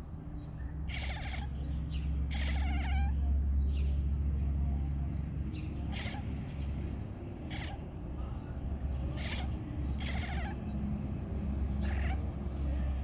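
A cat making short, wavering calls, one every second or two, over a steady low rumble.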